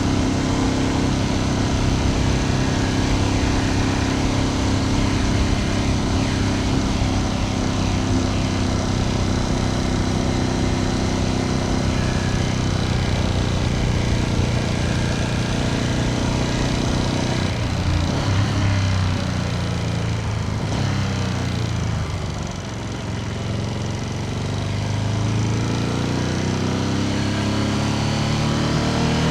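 Ducati Panigale V2S twin-cylinder engine running under way at a steady pace. About two-thirds of the way through, the revs drop off and then climb again as the bike accelerates.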